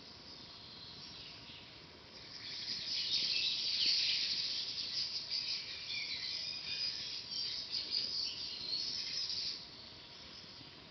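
High-pitched animal chirping: a dense run of chirps and trills that swells in about two seconds in and drops away near the end, over a faint steady background.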